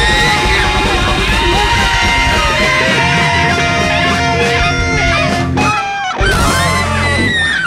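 A large free-jazz big band playing live: a dense, loud ensemble with guitar prominent. It drops out briefly about six seconds in, then comes back in with a loud hit.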